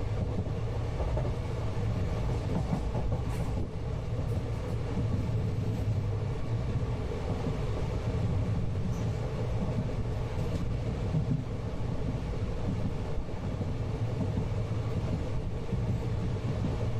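Steady rumble of a moving passenger train heard from inside the coach, its wheels running on the rails.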